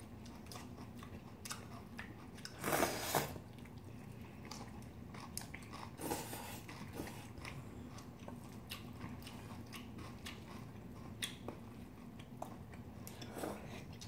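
Close-up chewing and crunching of food, with many small clicks of chopsticks and a spoon against steel bowls. There are a couple of louder short noisy bursts about three and six seconds in.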